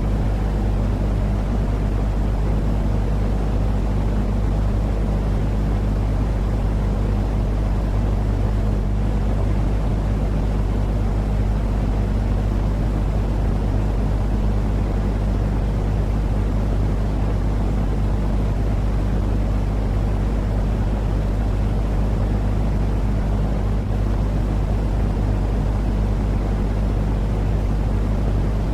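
Steady, unchanging low droning noise with a deep hum underneath: a continuous sleep-aid noise track for calming babies.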